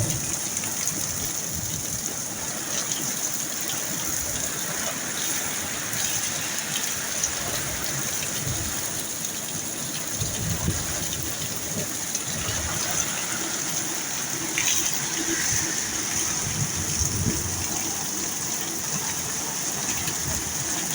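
Heavy rain falling steadily, a continuous hiss with water gushing and pattering, and faint low rumbles at times.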